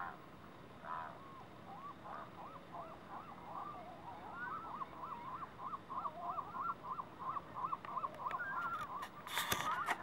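Birds calling in a rapid run of short, repeated calls, about three or four a second. A brief, loud, noisy burst comes near the end.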